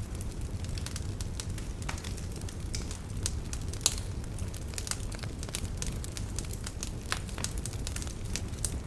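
Wood fire burning in a fireplace: a steady low rumble of the flames with irregular sharp crackles and pops from the logs, one pop a little before halfway louder than the rest.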